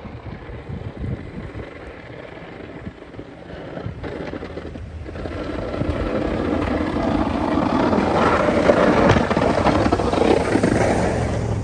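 Snow-plow vehicle's engine running, with wind buffeting the microphone; the noise grows louder about halfway through.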